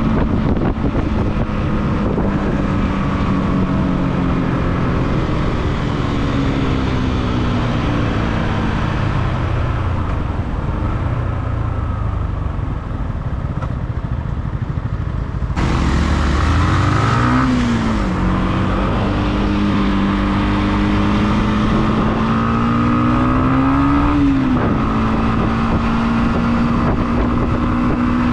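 Motorcycle engine heard from on the bike. Its note falls steadily as the bike slows. After an abrupt change about halfway, it climbs and drops sharply twice as it revs up through gear changes, then settles to a steady cruising note.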